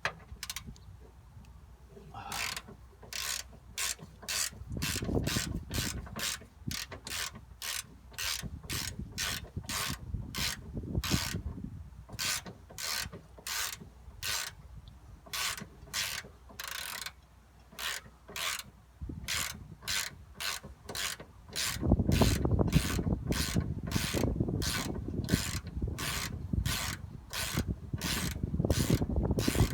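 Socket ratchet clicking in steady back-and-forth strokes, about three a second, as it works a tension rod mounting bolt loose. About two-thirds of the way in, a heavier low rubbing joins the clicks.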